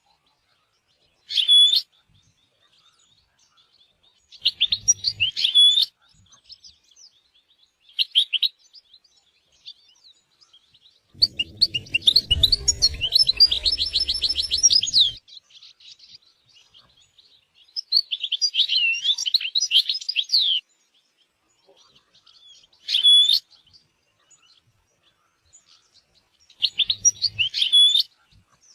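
European goldfinch singing in separate bursts of fast twittering and trills, seven phrases a few seconds apart. The longest phrase, about four seconds in the middle, has a low rumble under it.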